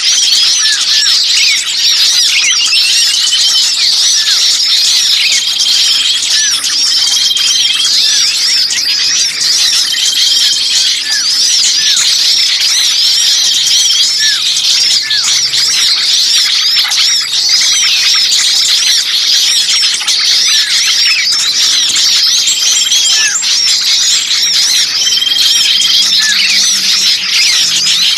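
Bird-lure recording of many small songbirds calling at once in a noisy, agitated chorus. Rapid high chips and squeaky chatter run without a break, with short level whistles repeating every second or two.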